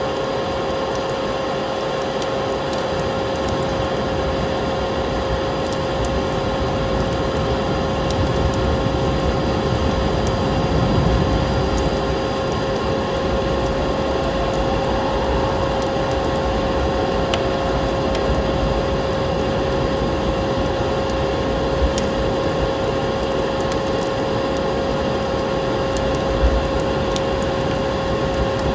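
Wood fire crackling with scattered small pops over a steady rushing noise, like blizzard wind, with a constant hum tone underneath.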